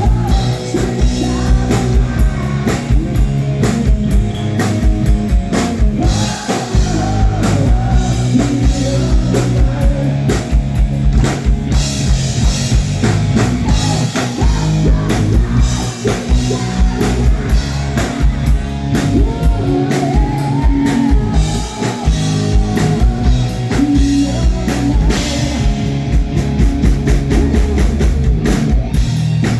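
Live rock band playing: drum kit, guitars and bass, with some singing.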